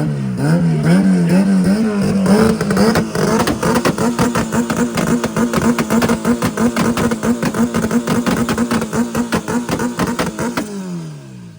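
Tuned car engines revved hard with a few wobbling blips, then held against a two-step launch limiter: one steady pitch with a rapid crackle of exhaust pops. Near the end the revs drop away.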